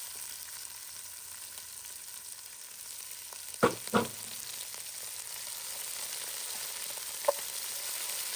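Onions and pimento peppers sizzling steadily in hot coconut oil in a pot. A stirring spoon knocks on the pot twice about halfway through and once more near the end.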